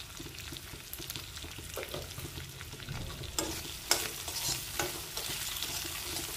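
Cubed potatoes sizzling in hot oil in a kadhai. From about halfway through, a steel spoon scrapes and knocks against the pan several times as the potatoes are stirred.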